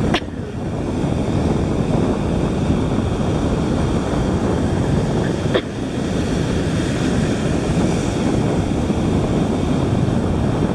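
Wind buffeting the microphone over the steady wash of ocean surf, with two brief clicks, one at the start and one about halfway through.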